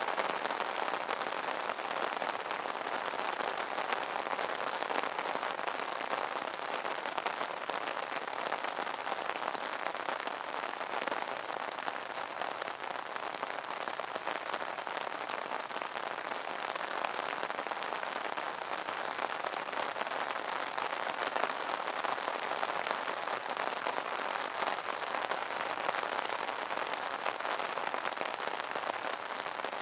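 Rain falling on an umbrella: a steady, dense patter of drops on the canopy fabric.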